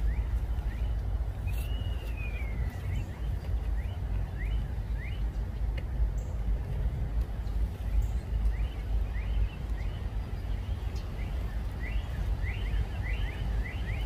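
Wild birds chirping with many short rising notes and one longer arching call about a second and a half in, over a steady low rumble.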